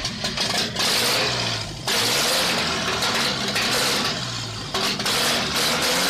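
Toyota 3Y four-cylinder petrol engine running on a test stand, its pitch rising and falling as it is revved, with brief drops in loudness about two and five seconds in.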